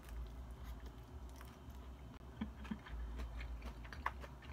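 Biting into a raw Swiss chard leaf wrap with cabbage slaw, then chewing it, with scattered crisp crunches.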